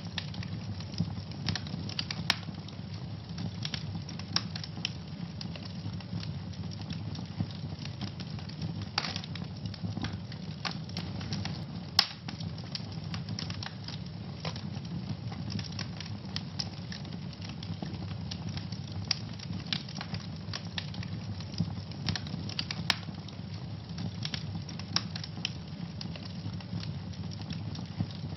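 Wood fire burning in a fireplace: a steady low rumble of flames with frequent sharp crackles and pops, the loudest pop about twelve seconds in.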